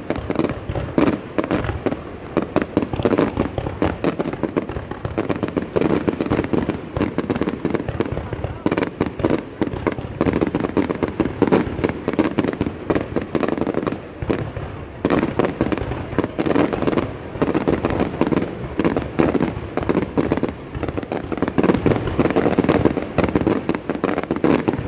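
Many fireworks and firecrackers going off at once in a dense, continuous barrage of overlapping cracks and bangs, with no pause.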